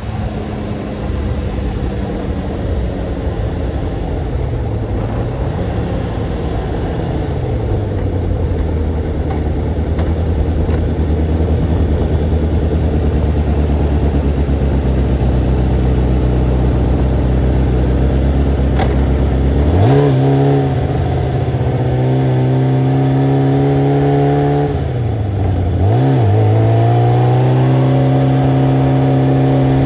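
Sport motorcycle engine running under way. Its pitch sinks a few seconds in and holds low, then jumps up sharply about two-thirds of the way through and dips briefly near the end, as with gear changes.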